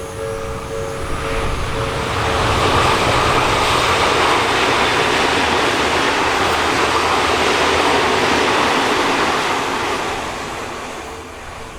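An Odakyu electric train passes at speed: the rush and rumble of wheels on rail swells over about two seconds, holds, and fades away near the end. The level crossing's warning bell rings steadily at the start, is drowned out as the train goes by, and is heard again at the end.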